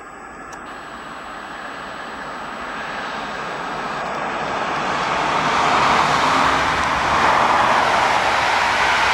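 Red electric locomotive hauling double-deck coaches runs up and passes beneath: a rushing rolling noise of wheels on rail that swells steadily for about six seconds, then holds loud as the train goes by.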